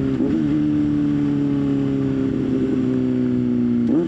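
Motorcycle engine running under the rider, its revs sinking slowly as the bike slows. Quick blips of revs come about a quarter second in and again near the end, as on downshifts. Wind and road noise run underneath.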